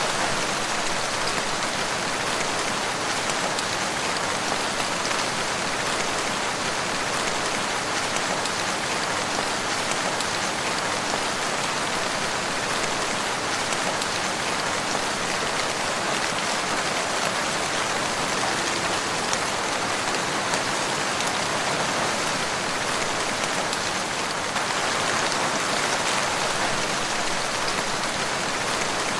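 Steady rain falling, an even hiss of many drops pattering on a surface with no change in strength.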